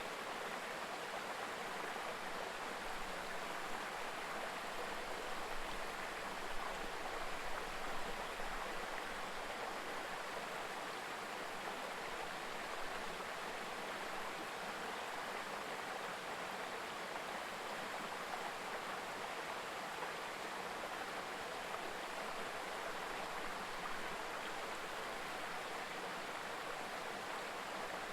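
A mountain river babbling over rocks: steady rushing and gurgling of flowing water.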